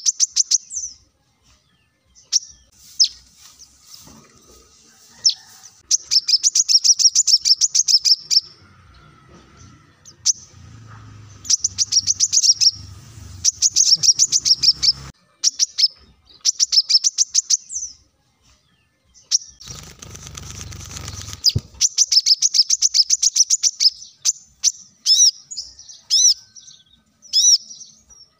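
Brown-throated sunbird (kolibri kelapa) singing in bursts of rapid, high chattering trills a second or two long, with short gaps between them, then single short chirps near the end. A low rumble runs under the song in two stretches.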